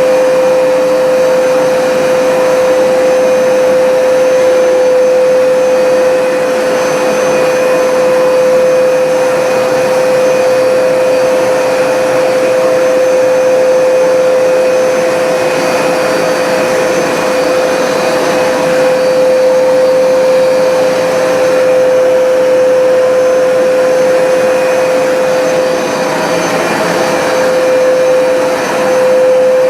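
Hoover SmartWash carpet cleaner's suction motor running steadily with a constant whine, pulled slowly over a low-pile rug on dry passes to suck the water back up.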